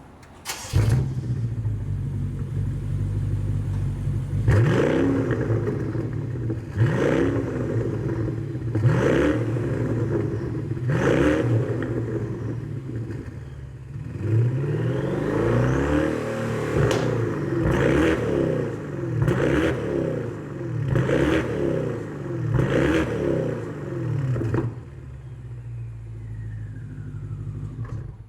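BMW 650i Gran Coupe's twin-turbo V8 through a one-off straight-through rear muffler with 90 mm tips: it starts about a second in and idles. It then takes a series of sharp throttle blips about every two seconds, with one longer rev in the middle, and settles back to idle near the end.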